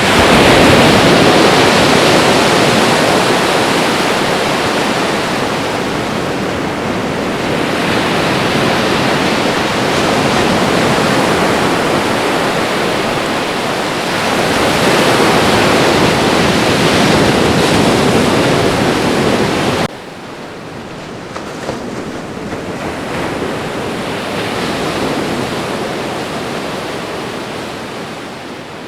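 Ocean waves washing onto a shore, a continuous surf noise that swells and falls every several seconds. About two-thirds of the way through it drops suddenly to a quieter, softer wash.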